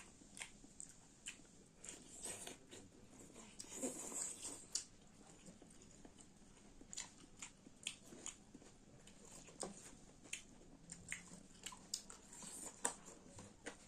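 Close-miked chewing and biting of chicken with onion: wet mouth clicks and small crunches at irregular intervals.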